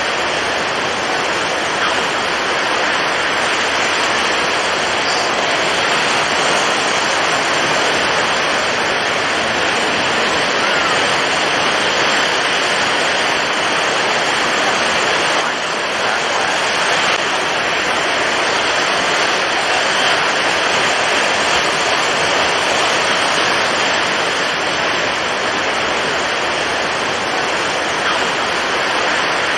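Storm at sea: a steady, dense rush of strong wind and heavy surf with no distinct breaks between waves.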